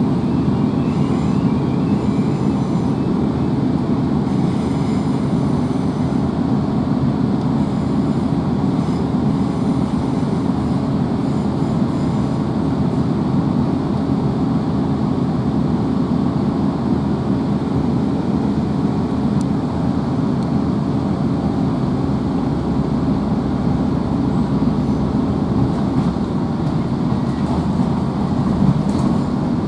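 Steady running noise of a GWR Class 165 diesel multiple unit under way, heard from inside the passenger carriage: the underfloor diesel engine's drone with the rumble of the wheels on the rails.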